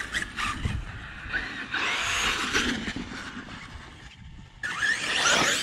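Electric RC monster truck driving hard on wet sand: its motor whines up and down with the throttle over the noise of the tyres churning sand. The sound drops away briefly about four seconds in, then comes back louder.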